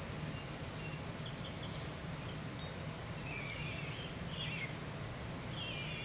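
Faint high chirps of small birds, a scatter of short notes in the first two seconds and a few wavering calls in the second half, over a steady low hum.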